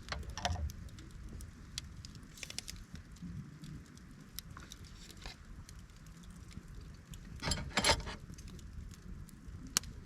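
Wood campfire crackling, with scattered sharp pops and a louder flurry of crackling about three-quarters of the way through.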